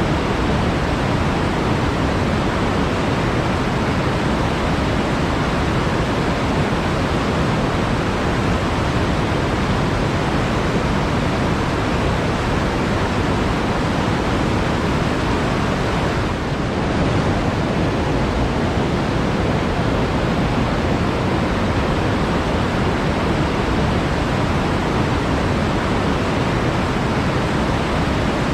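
Flowing water, a steady, even rush with no pauses, dipping slightly for a moment about two-thirds of the way through.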